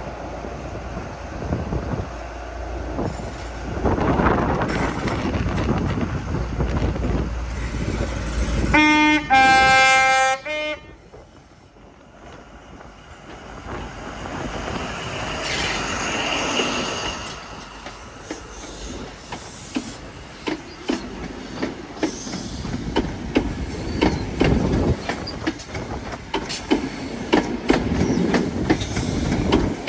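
An HST with Class 43 power cars sounds its horn for about two seconds, about nine seconds in. It then rumbles past, its wheels clicking over the rail joints more and more densely towards the end.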